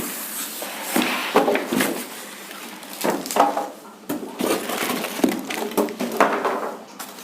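Handling noise from unboxing the welding machine's accessories: irregular rustling, crinkling and knocks as the packaging, welding cables and clamps are moved about.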